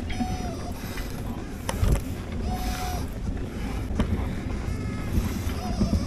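Wind and road rumble on the microphone of a bicycle being ridden, with a few light clicks and three or four short, steady, whistling tones, each about half a second long.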